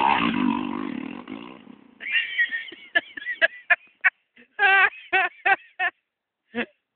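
Dirt bike engine running and fading away over the first two seconds, followed by a series of short, sharp, pitched calls or shouts that come in quick bursts.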